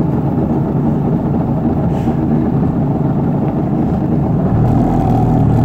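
Engine of a vehicle moving through floodwater, running steadily and getting a little louder about four and a half seconds in.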